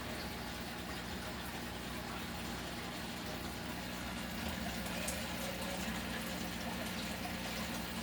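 Steady running water over a low, even mechanical hum, the kind a water pump or filter makes.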